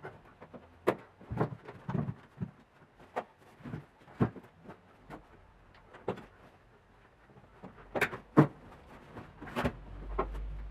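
Irregular clicks and knocks from hands-on work on a car seat, about a dozen over ten seconds, the loudest around a second, four seconds and eight seconds in. A low hum comes in near the end.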